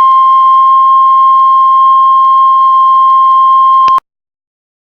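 Heart monitor flatline: a continuous steady beep near 1 kHz, the alarm tone that signals the heart has stopped. It cuts off suddenly about four seconds in.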